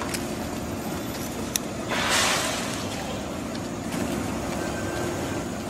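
Station ambience around a stationary electric limited express train: a steady hum and noise. About two seconds in, a hiss swells up and fades over about a second.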